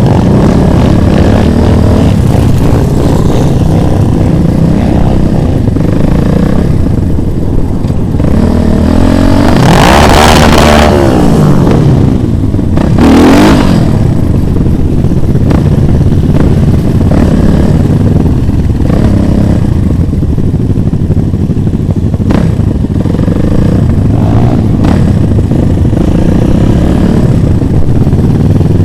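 Motorcycle engines running on a ride, steady throughout, with the engine pitch sweeping up and down twice, about ten and thirteen seconds in, as bikes rev or pass.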